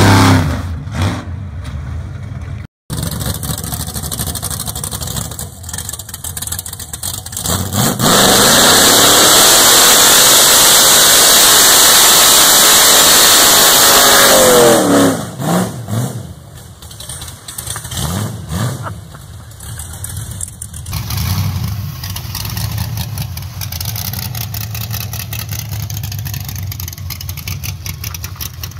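Rat rod engines revving hard through tire-smoking burnouts. The loudest part is a long stretch in the middle where the revs swing up and down. Near the end a different rat rod's engine runs at a steady, pulsing idle.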